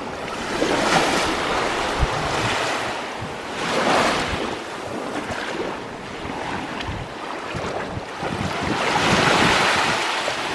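Small sea waves washing in on the shore, swelling three times, with wind buffeting the microphone.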